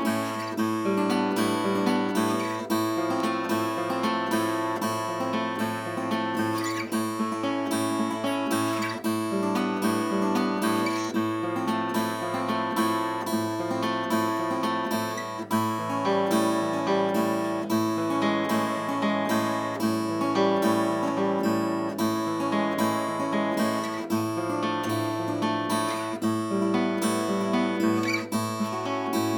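Early-1970s S.Yairi YD-303 acoustic guitar being played, chords strummed and picked in a continuous flow.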